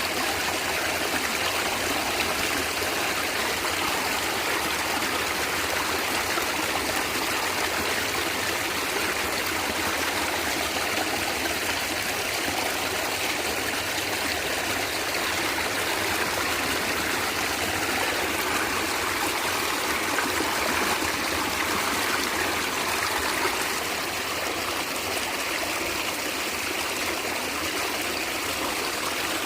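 Small stream of water gurgling and trickling steadily over stones.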